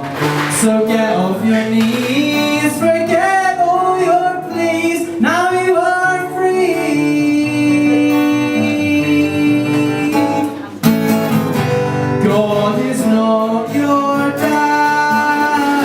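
A man singing a song to acoustic guitar, holding one long note a little past the middle.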